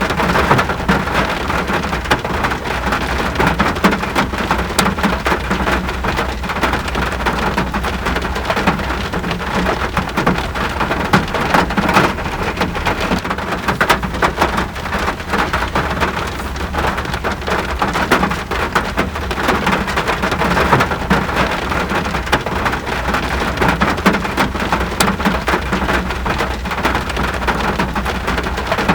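Steady heavy rain falling, a dense, even patter of drops with a low rumble underneath.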